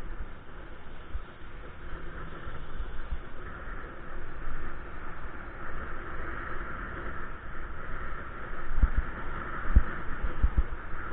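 Steady rushing road and wind noise while riding a bike, with a few low thuds of wind buffeting the microphone near the end.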